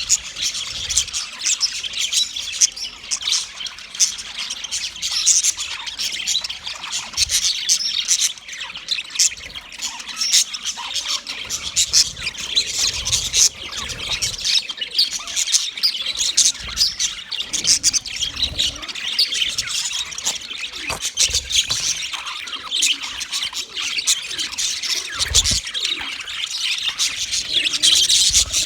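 Male budgerigars chirping and warbling together in a dense, unbroken chatter of high chirps and squawks.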